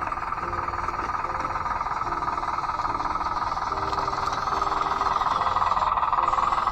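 Radio-controlled Bruder D5 bulldozer's electric drive and gearboxes running with a steady whine, growing a little louder toward the end. Quiet background music plays underneath.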